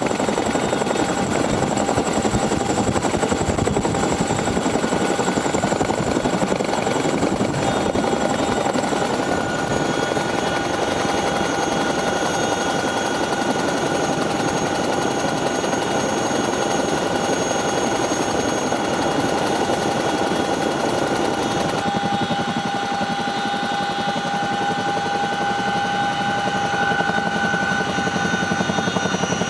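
Boeing CH-47 Chinook tandem-rotor helicopter running: rapid rotor chop with a steady high turbine whine from its twin turboshaft engines. About three-quarters of the way through the rotor chop drops back and the whine stands out more.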